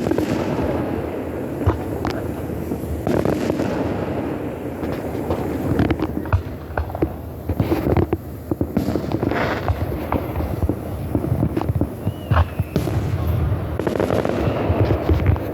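Fireworks display: a continuous barrage of booming shell bursts mixed with crackling, the reports following one another closely.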